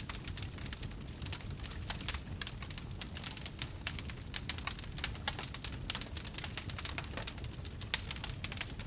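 Wood bonfire burning, its logs crackling and popping in quick, irregular snaps over a low steady rumble.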